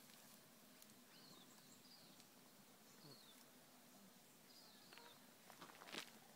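Near silence in bushland: faint, short, high falling chirps from a small bird, repeated every second or so. There is a brief crackle of handling in the grass near the end.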